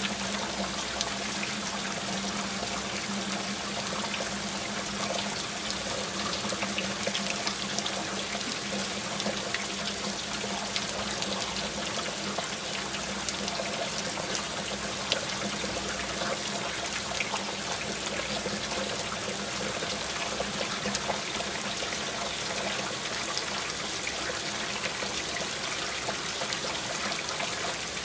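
Steady rain with water running and trickling, over a constant patter of small drops.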